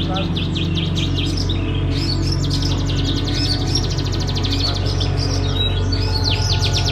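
Many small songbirds chirping and singing at once, rapid overlapping high chirps throughout, over a steady low hum.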